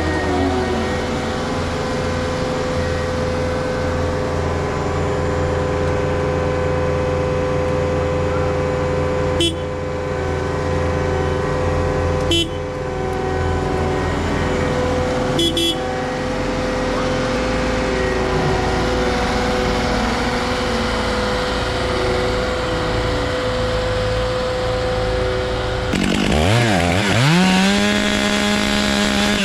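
Two-stroke chainsaw engines running steadily, with a few sharp knocks along the way. Near the end a saw's engine drops sharply in pitch and then revs back up.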